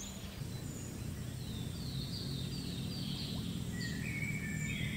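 Birds calling over rural outdoor ambience: runs of short, falling high-pitched chirps repeated several times, over a steady low rumble.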